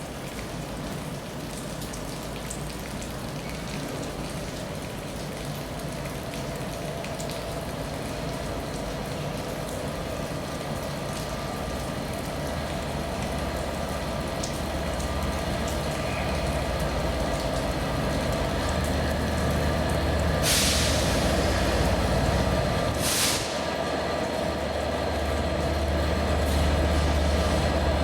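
A train approaching and pulling into the platform, its low engine rumble growing steadily louder. Two short hisses of air, typical of air brakes, cut in about two-thirds of the way through.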